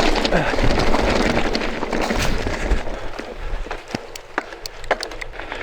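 Merida Big Trail 500 mountain bike descending a rough stony track in strong wind: wind buffeting the microphone and tyres rolling over stones, with sharp clicks and knocks from gravel and the bike rattling. The rush of noise eases about three seconds in, leaving scattered clicks.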